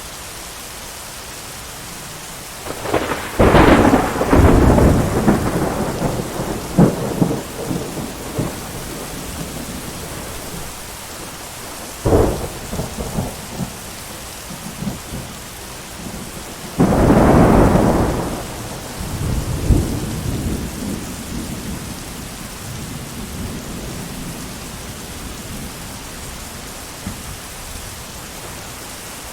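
Steady heavy rain with thunder breaking through three times: a long crack and rumble a few seconds in, a short sharp crack near the middle, and a loud peal a little later that rolls away over several seconds.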